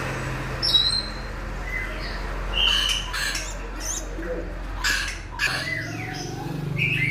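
A pet talking bird giving short squawks and brief whistled chirps at irregular intervals, over a steady low hum.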